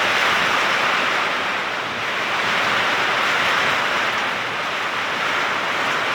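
Torrential thunderstorm downpour driven by strong wind: a steady, dense rushing hiss of heavy rain.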